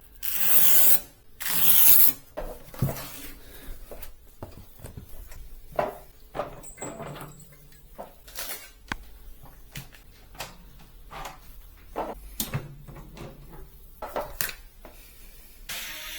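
Computer parts and their packaging being handled: two loud rasping, rustling noises in the first two seconds, then scattered clicks and knocks.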